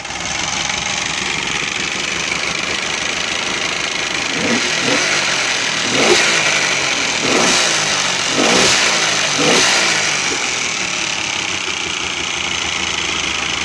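70 hp Johnson outboard motor running, blipped up in revs about five times in quick succession from about four seconds in, then settling back to a steady idle.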